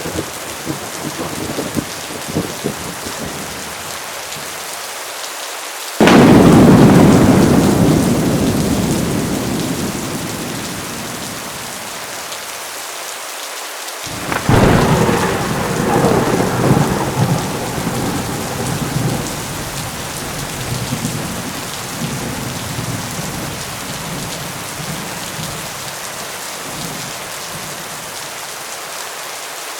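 Steady heavy rain with two peals of thunder: a sudden loud crack about six seconds in that rumbles and slowly fades, and a second rolling rumble with several swells about halfway through.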